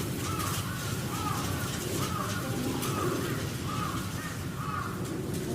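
A crow cawing over and over, short arched calls about once a second, over a steady low background rumble.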